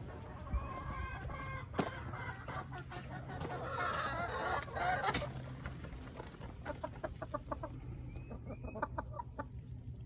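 Chickens clucking, with a few short calls and a quick run of clucks in the second half.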